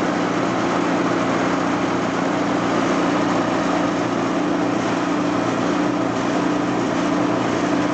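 Outdoor unit of a 3-ton Carrier heat pump running steadily, its compressor giving a low, even hum under the rush of the condenser fan. It is running on a newly fitted 5-2-1 hard-start capacitor, and its start sounded good.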